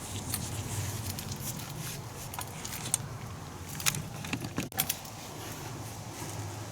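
Small metal tools and parts clinking and tapping in handling, a few scattered sharp clicks with a quick cluster just before the five-second mark.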